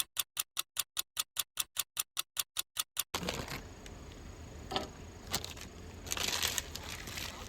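Clock-ticking sound effect, fast and even at about five ticks a second, running for about three seconds and cutting off suddenly. After it, a low background with a few faint clicks and crinkling.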